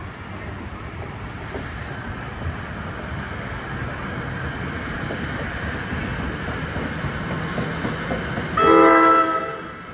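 NJ Transit trains on electrified track: a steady rail rumble that slowly builds as a multilevel train rolls past close by. Near the end comes a single loud train horn blast of about a second.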